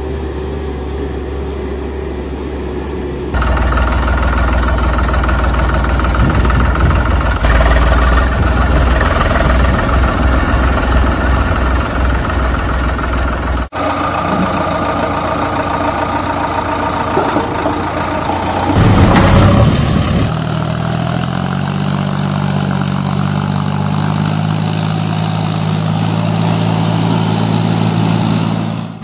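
Tractor and JCB digger engine sounds running, in several joined stretches that change abruptly about 3, 14, 19 and 20 seconds in. The last stretch settles into a steady idle.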